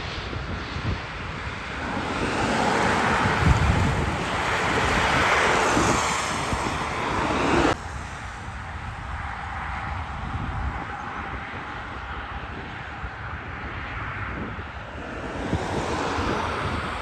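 Jet airliner passing, its engine noise swelling for several seconds with wind buffeting the microphone, then cutting off suddenly about eight seconds in to a quieter, steadier jet hum.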